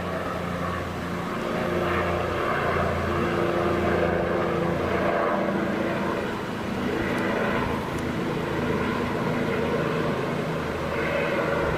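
Helicopter flying overhead: a steady engine and rotor drone that wavers slightly in pitch.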